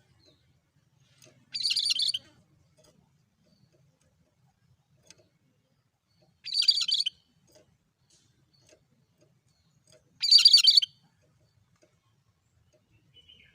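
Cucak kerinci calling: three short, identical bursts of song about four seconds apart, each under a second, in a monotonous, regular rhythm.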